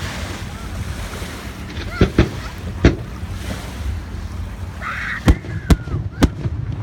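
Fireworks bursting: six sharp bangs in two clusters, three about two to three seconds in and three about five to six seconds in, over a steady low wind rumble on the microphone.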